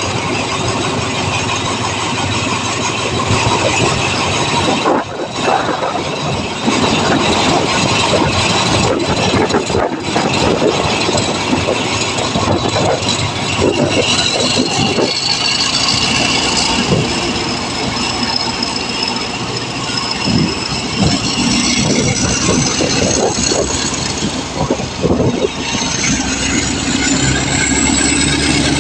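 Diesel train running through a station, its engine and wheels loud and steady. From about halfway a high whine slowly rises in pitch.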